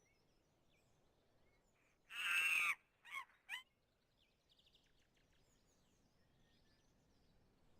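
A bird calling: one loud call about two seconds in, then two short calls just after, followed by faint high chirps.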